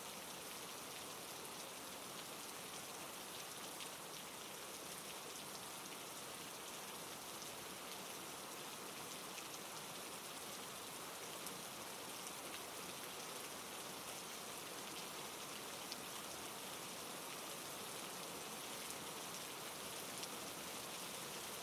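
Steady rain falling on a surface, with a dense patter of individual drops over an even hiss.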